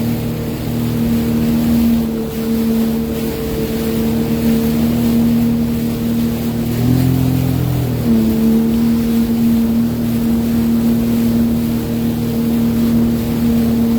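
Sea-Doo Fish Pro personal watercraft's engine running at a steady speed, with wind on the microphone. About halfway through, the engine note shifts up briefly, then dips and settles back to the same steady hum.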